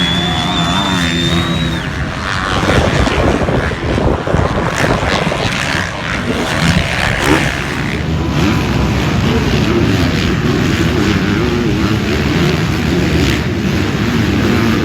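Motocross bike engines racing, revving up and down as riders work the throttle through the track, with several bikes overlapping in a continuous loud drone.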